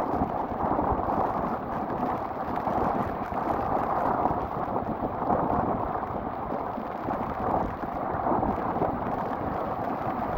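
Rough storm waves breaking on a rocky shore make a continuous, dense roar. Strong wind buffets the microphone, adding a ragged low rumble.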